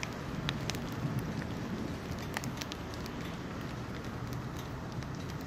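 Steady rain falling during a thunderstorm, with individual drops ticking sharply and irregularly close by.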